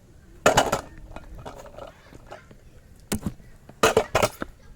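Sharp clacks and clattering knocks of a ridden deck striking the pavement during trick attempts. The loudest cluster comes about half a second in, with more about three and four seconds in.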